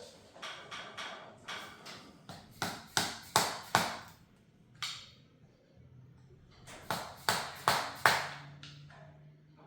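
A string of sharp metal taps and clinks with short ringing, as of tools and parts being struck and handled on an engine during teardown. They come in two groups, the loudest strikes about three to four seconds in and again about seven to eight seconds in.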